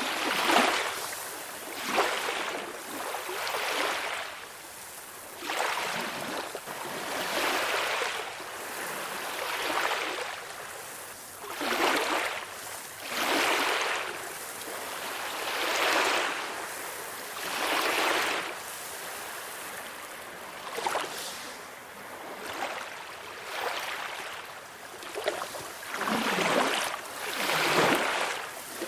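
Small ocean waves breaking and washing on a shore, a hiss of surf that swells and fades every second or two.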